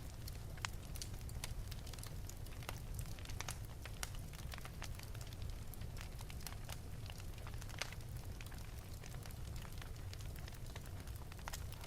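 Wood fire burning in an open fireplace, crackling with frequent irregular sharp pops and snaps over a steady low rumble of the flames.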